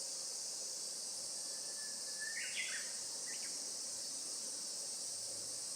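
Steady, unbroken high-pitched chorus of insects shrilling, with a bird calling briefly about halfway through: a short thin whistle followed by a couple of quick higher notes.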